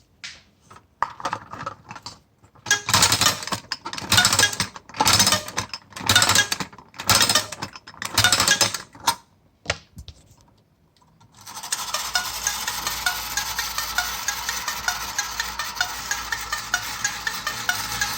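Hoch & Beckmann clockwork tin motorcycle carousel: its key is wound in a series of ratcheting bursts about a second apart, then after a short pause the spring motor runs with a steady whirr and rapid fine ticking as the carousel turns.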